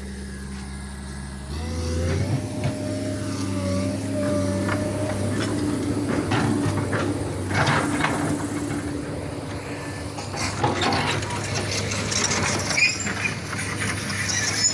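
Backhoe's diesel engine idling, then revving up about a second and a half in as it works, with a steady whine over the engine for several seconds and scattered knocks and clatters.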